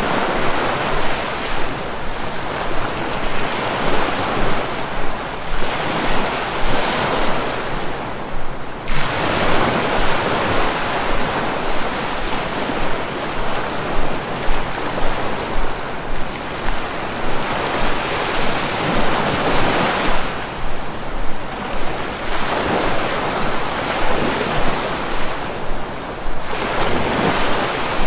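Sea waves washing ashore in repeated surges, each swelling and easing over several seconds, with wind buffeting the microphone.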